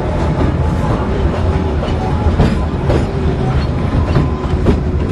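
A small zoo train running on its track, heard from a seat in a passenger car: a steady low rumble with irregular clicks and clatter from the wheels on the rails.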